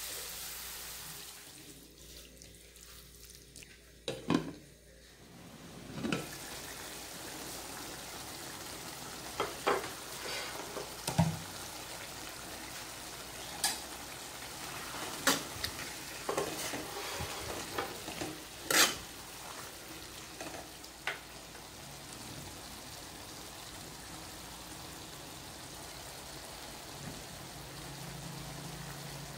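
Bamboo shoots and pork sizzling and simmering in a metal wok, hissing more brightly as water is poured in at the start. Scattered sharp clicks and scrapes of stirring against the pan run through the middle.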